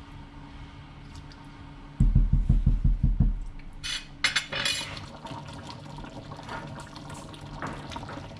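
Kitchen handling sounds: a quick run of heavy low thumps lasting about a second and a half, then a brief sharp clatter, then water running or pouring.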